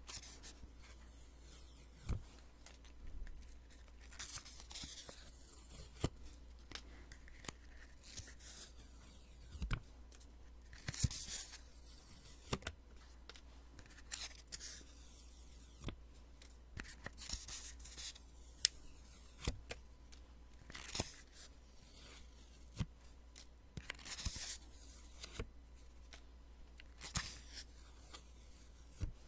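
Sticky notes (Post-its) being peeled off one after another, close to the microphone. Each peel is a short papery rip, with sharp ticks in between, about every one to two seconds.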